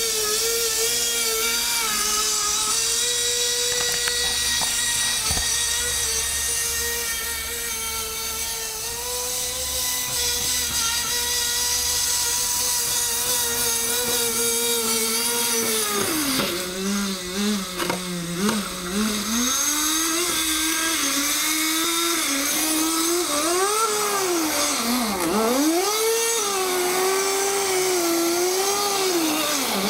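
Small nitro glow-plug engine of a Kyosho Blizzard RC tracked vehicle running with a high, steady buzzing whine. About halfway through the pitch drops, then swings up and down again and again as the throttle is opened and closed.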